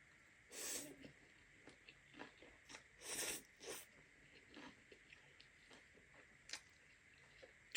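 Close-miked eating: chewing and biting, with a few short noisy bursts and scattered small clicks between quieter stretches.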